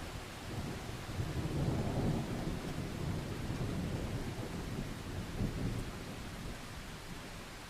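Steady rain hissing, with a long roll of thunder that swells about a second in and fades out over the next several seconds.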